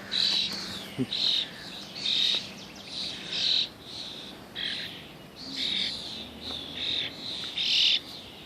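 A bird chirping over and over, a short high call about once a second.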